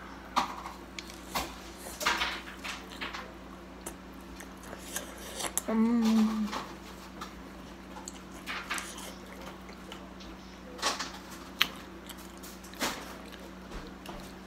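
Close-up eating of a pepperoni pizza slice: biting and chewing with scattered wet mouth clicks and smacks, and a short hummed "mm" about six seconds in.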